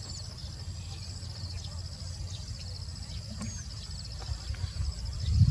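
Outdoor ambience: a steady, high-pitched pulsing trill of insects, over a low rumble, with a few faint bird chirps.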